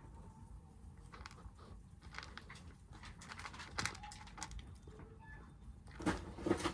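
Stray kittens eating from a dish: scattered small clicks and taps of food and bowl, with a louder scuffling burst about six seconds in.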